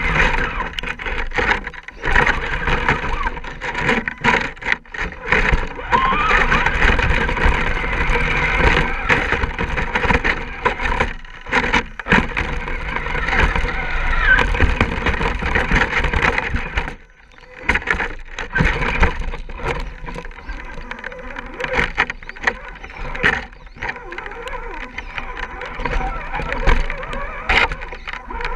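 Electric RC rock crawler (Axial SCX10-type) driving over rough, wet ground: a steady electric motor and gear whine mixed with crunching, cracking and knocking as the tyres climb over rocks and sticks. It stops briefly about two thirds of the way through, then starts again.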